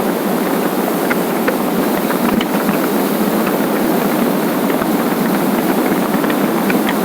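Steady rush of a motorcycle on the move, wind and engine noise together, with faint short ticks now and then.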